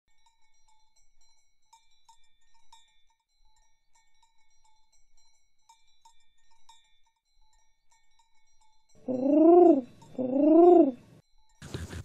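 Faint, sparse tinkling chimes, then two loud animal calls about a second apart, each rising and then falling in pitch. A scratchy noise begins near the end.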